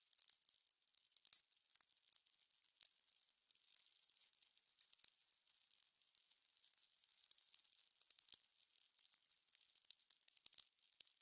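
Fire crackling: many irregular sharp pops and snaps over a soft, high hiss.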